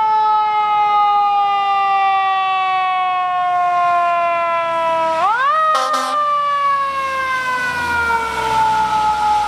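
A siren wailing: one tone gliding slowly down in pitch, snapping back up a little over five seconds in, then gliding slowly down again, over a steady hiss.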